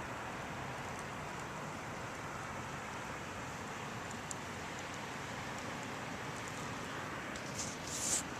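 Steady outdoor noise during a snowstorm, an even hiss with no clear single source, with a short, louder high rustle near the end.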